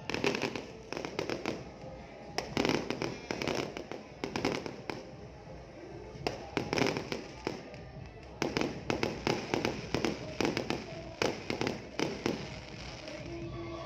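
Fireworks going off for the New Year: a rapid, irregular series of sharp bangs and crackles, coming thicker and faster from about halfway through.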